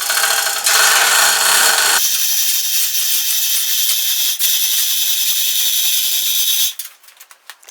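Chain hoist being worked by hand: its chain rattles and clatters steadily through the hoist for about seven seconds while lifting a lawn tractor, then stops abruptly.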